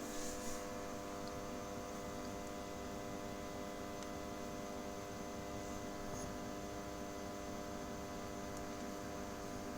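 Steady electrical hum, made of several tones, from the running homemade lamp heater with its fan and power supply, with a faint click about half a second in.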